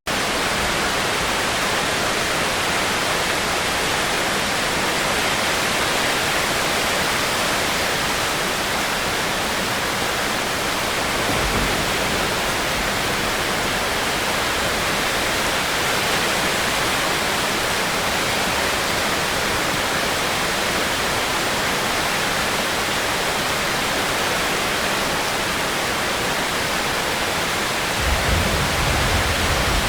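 Steady heavy rain, an even hiss, with a short low rumble near the end.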